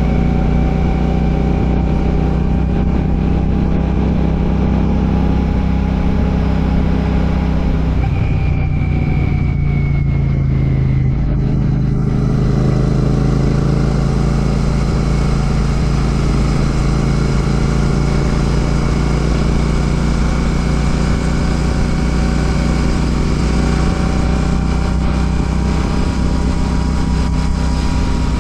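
Royal Enfield Classic 650's 648 cc parallel-twin engine running through an Ngage aftermarket exhaust while riding. It holds a steady note, which changes briefly about eight seconds in and settles again about four seconds later.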